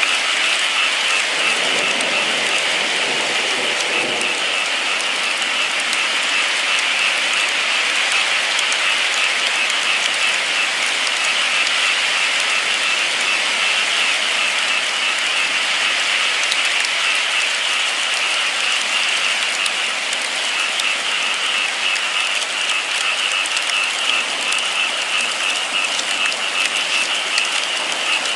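Steady heavy rain falling, an even hiss with scattered patter of drops.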